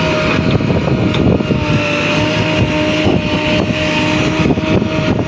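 Diesel engines of a JCB backhoe loader and a Swaraj 855 tractor running steadily during soil loading, with a steady high whine over the engine rumble and a few short knocks.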